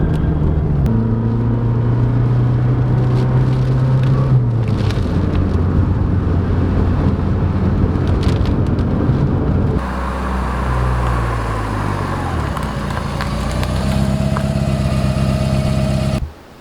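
Lancia Delta Integrale's turbocharged four-cylinder engine running under way, its note holding steady with small steps in pitch. About ten seconds in the sound changes abruptly: the engine note falls, then rises again as it revs up, and it cuts off suddenly near the end.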